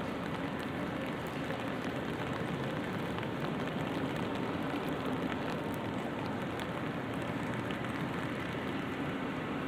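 Light rain pattering on an umbrella overhead: a steady, even hiss sprinkled with small drop ticks, over a low steady hum.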